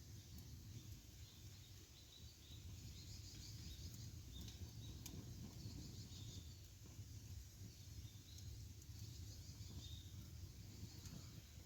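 Faint outdoor ambience: light bird chirps scattered over a low steady rumble, with a couple of soft crackles from the campfire.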